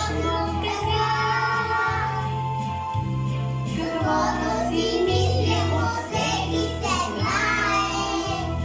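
Children singing a song over a recorded backing track with a steady, repeating bass line.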